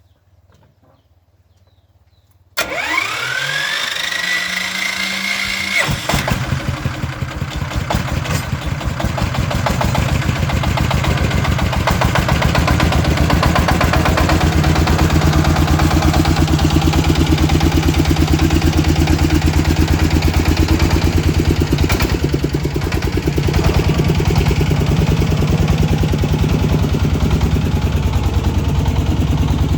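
Truck engine being started: after a quiet opening, a whine rises in pitch for about three seconds as it cranks, then about six seconds in the engine catches and settles into a steady, evenly pulsing idle.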